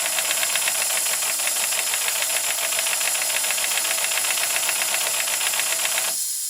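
Small live-steam locomotive running: a steady steam hiss with fast, even exhaust beats, and steam leaking from a poorly sealed sight-glass O-ring, a leak that is losing boiler pressure. The sound falls away near the end.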